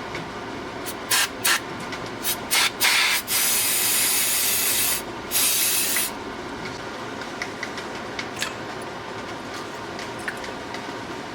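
Pressurized spray hissing onto a pitbike carburetor during cleaning: several short bursts, then a long spray of about two seconds and a shorter one. Faint small ticks and handling noises follow.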